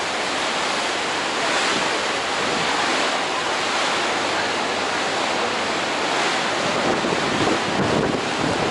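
Steady rushing of wind and water heard from the deck of a moving river cruise boat, with wind buffeting the microphone.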